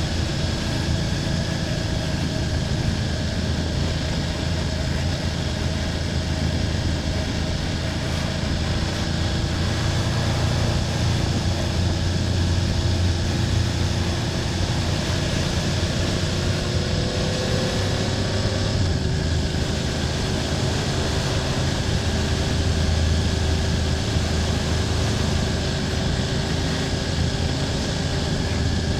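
BMW F800GS parallel-twin engine running steadily under way at road speed, its note and level rising and easing gently with the throttle.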